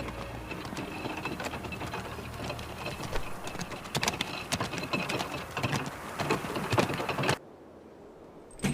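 Fast, irregular clattering of a hurrying street vehicle on the move, cutting off suddenly about seven seconds in.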